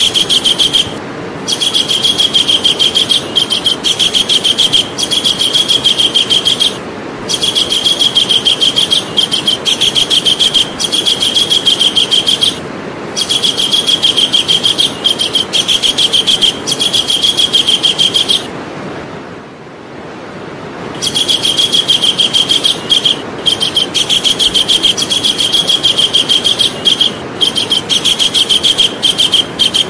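Javan kingfisher calling: long runs of fast, high repeated notes, each run several seconds long, with short breaks between runs and a longer pause a little past the middle.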